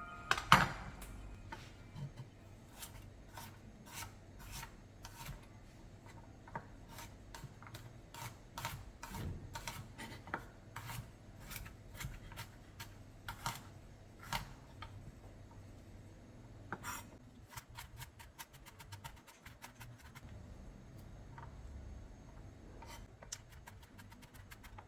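Kitchen food preparation: a knife cutting on a cutting board in irregular strokes, with a quick run of rapid chops about two-thirds of the way through, and scraping in between.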